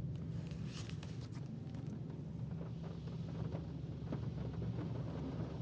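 Automatic car wash heard from inside the car: a steady low rumble, with a burst of hissing spray and a few light ticks on the body about a second in.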